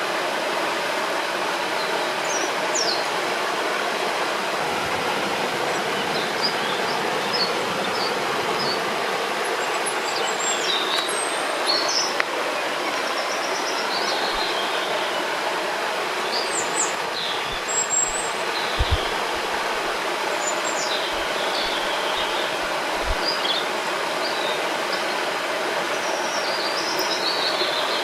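Steady rush of flowing river water, with birds chirping and whistling on and off above it.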